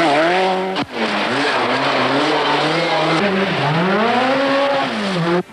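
Group B rally car engine at high revs on a stage, its pitch dropping and climbing again as the driver lifts, brakes and accelerates, with tyre and gravel noise. There is a brief dip in the sound about a second in, and it cuts off abruptly near the end.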